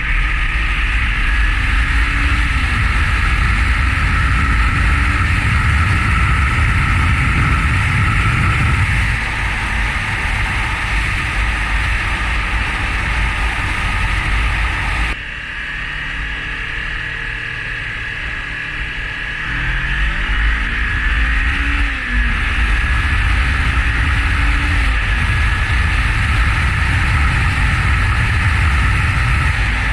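A 2017 Honda CBR500R's parallel-twin engine on its stock exhaust, accelerating hard through the gears, with heavy wind noise on the microphone. The engine note rises and drops at each upshift. The sound breaks off abruptly about halfway, and after a quieter few seconds the bike pulls through the gears again.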